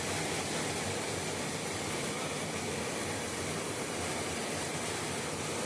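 Heavy rain pouring down in a windy storm, a steady, dense hiss.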